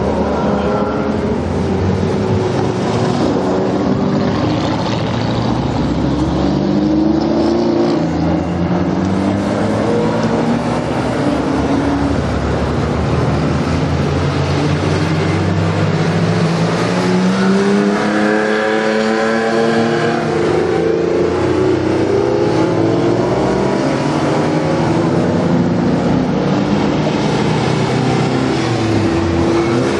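A procession of Porsche sports cars pulling away one after another, each engine revving up as it passes close by, so the pitch climbs again and again.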